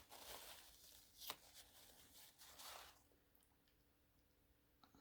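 Faint rustling and scraping from handling a Swiss Army pocket knife, with one sharp click about a second in.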